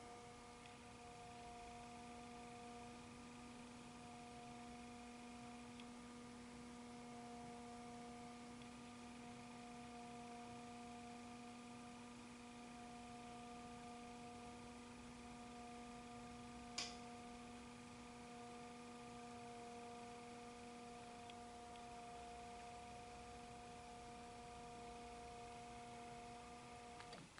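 Faint steady electrical hum with several overtones, broken once by a single sharp click about two-thirds of the way through; the hum cuts off just before the end.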